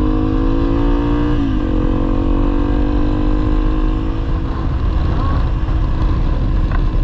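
Honda CRF300L's single-cylinder engine pulling the bike along a dirt track: the engine note climbs, drops sharply about one and a half seconds in, then holds steady, over a heavy low rumble.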